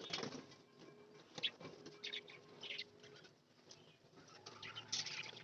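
Pet budgerigars chirping faintly now and then in their cage, with soft rustling among the calls.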